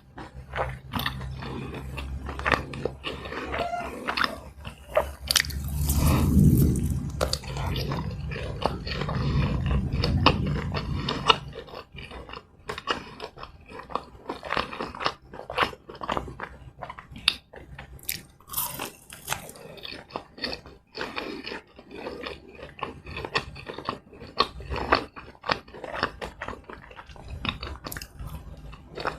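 Close-miked eating of fried Malaysian snacks (keropok lekor fish sausage and masalodeh vadai lentil fritters): crunching bites and chewing with many sharp crisp clicks. A low rumble sits under the first dozen seconds, loudest about six seconds in.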